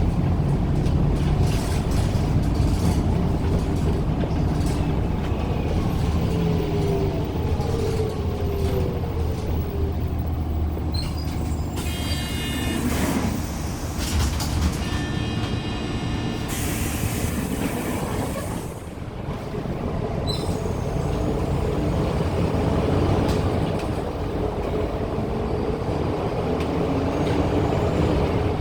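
Doosan GL11P natural-gas engine of a Daewoo NEW BS106 city bus running steadily under way, heard from inside the bus. About halfway through comes a loud hiss of air.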